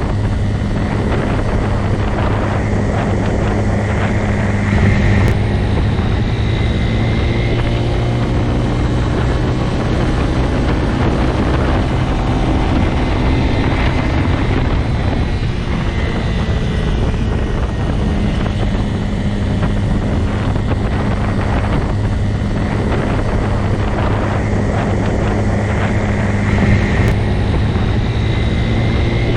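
Motorcycle engine running steadily, a continuous low drone with little change in pitch.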